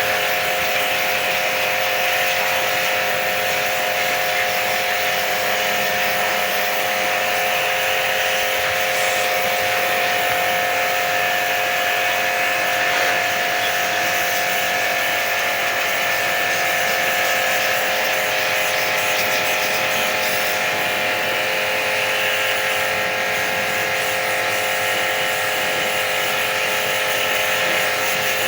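Small electric pressure washer running steadily with an even motor buzz and a spray hiss, washing down an air conditioner during servicing.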